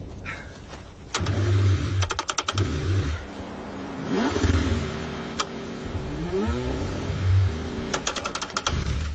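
A cold car engine being cranked and struggling to start, in repeated bursts. Runs of rapid clicking come about two seconds in and again near the end, and the pitch rises and falls as the engine briefly catches.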